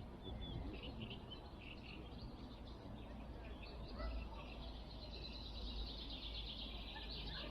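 Small birds chirping and twittering, scattered short high calls that thicken into a denser chatter about halfway through, over a low steady rumble.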